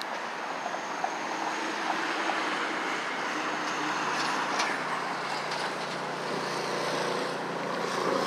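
Steady rushing of road traffic passing by, swelling slightly in the middle.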